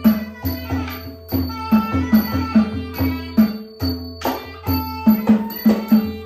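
Traditional southern Thai Nora music: quick, uneven drum strokes several times a second over steady held tones.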